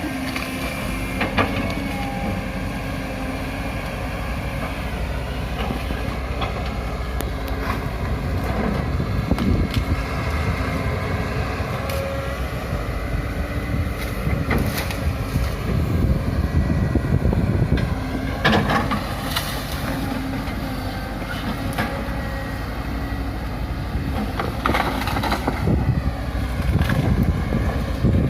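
Excavator engine running continuously under working load, swelling louder several times, with scattered sharp knocks.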